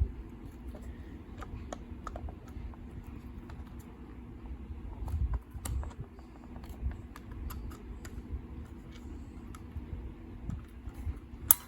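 Plastic multimeter case being pried and pulled apart by hand: scattered small clicks and taps of the housing halves and clips, with a sharp snap near the end.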